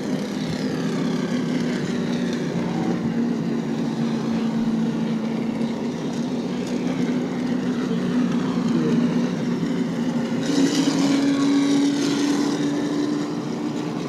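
Race trucks' engines running at low, steady throttle as the field circles under caution. One truck passes louder and slightly higher in pitch about ten seconds in.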